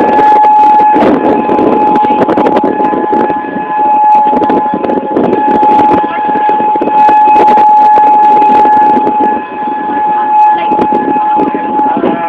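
Outdoor tornado warning siren sounding one steady, loud high tone that dips briefly near the end, over a rough, crackling noise.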